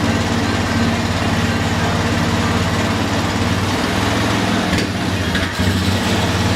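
Honda ATV engine running at a steady idle, with two brief dips about five seconds in. It is an engine that wouldn't stay running, which the owners suspect could be clogged fuel lines or a fouled carburetor.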